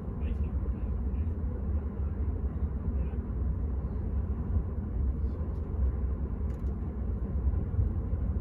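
Steady low rumble of an Enterprise passenger train running along the line, heard from inside the coach.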